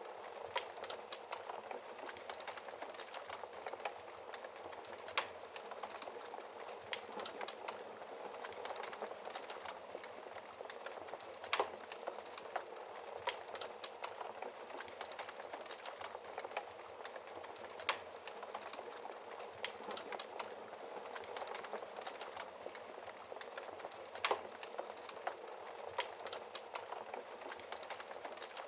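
Fire crackling: a steady bed of fine crackles with a sharper pop every few seconds.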